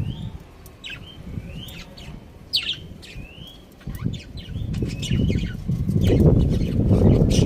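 Birds chirping in short calls that slide up and down in pitch, several in a row. Under them runs a low rumbling noise that gets louder in the last few seconds.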